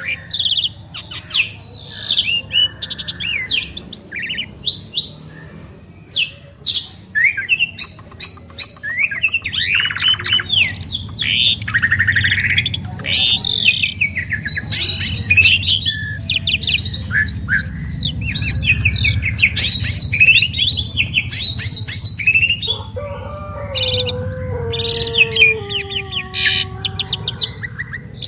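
Two Asian pied starlings (jalak suren) singing together: a busy, varied stream of chirps, whistles and fast rattling trills. About five seconds before the end a lower drawn-out call slides slowly down in pitch beneath the chirping.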